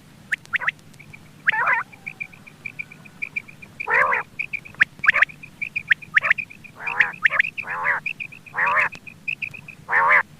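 Quail calling: a string of short, harsh calls repeated every second or so. Behind them, from about a second in until near the end, a rapid, even series of short high notes.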